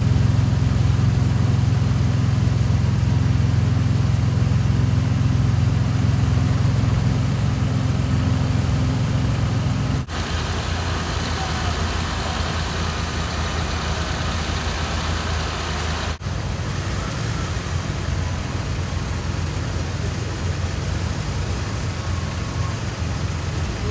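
A slow queue of classic cars idling and rolling past at walking pace, the nearest a BMW E24 6 Series coupé with its straight-six running steadily. The engine hum is loudest for about the first ten seconds, then drops abruptly and carries on more quietly.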